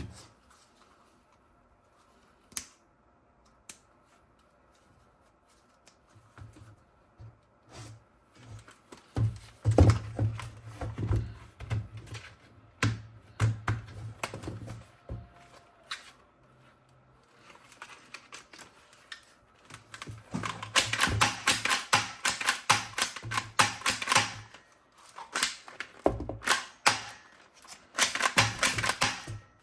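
Rapid, irregular clicking and clattering of small objects being handled, in bursts that are busiest in the second half.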